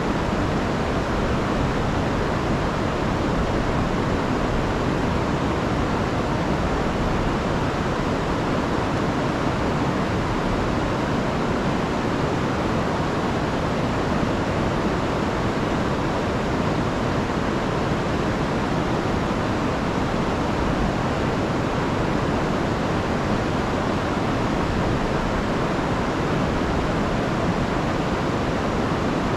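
A river swollen from a week of rain rushing over a fall, a steady loud roar of water with no breaks.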